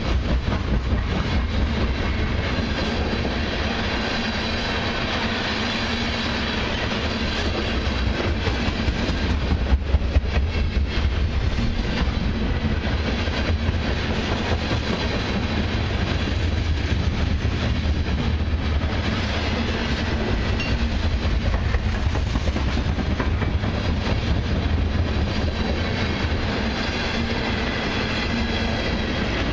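Freight train tank cars rolling past, their steel wheels on the rails making a steady, deep rumble. There are a few louder knocks about ten seconds in.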